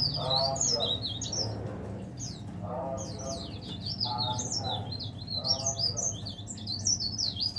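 Cikrak daun (leaf warbler) singing nonstop: a fast, jumbled run of high chirps and rising and falling trills.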